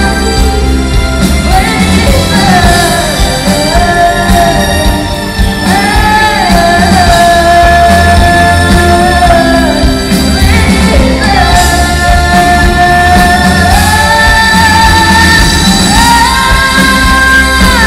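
Live pop-rock band playing with a young female lead singer holding long, high sung notes, each lasting a few seconds, over steady drums and bass.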